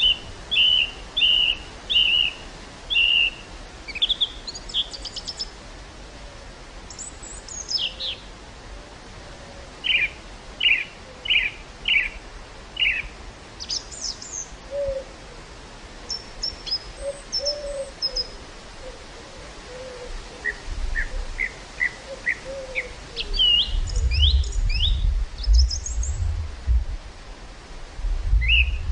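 Songbirds singing in the open: runs of short, evenly repeated chirps and some higher slurred notes, one phrase after another. Near the end, wind gusts buffet the microphone with a low rumble.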